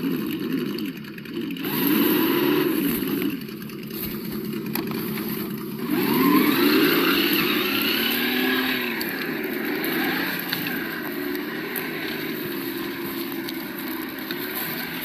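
Simulated engine sound from the sound module of an Absima Yucatan 1:8 RC crawler, revving up and down several times with the throttle. The biggest rev comes about six seconds in.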